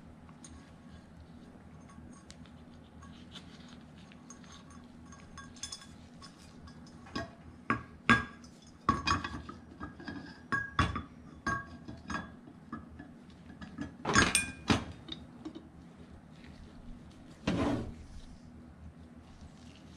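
Metal ceiling fan parts being handled and fitted back together: a run of sharp clinks and knocks, thickest in the middle, with a longer scraping sound near the end.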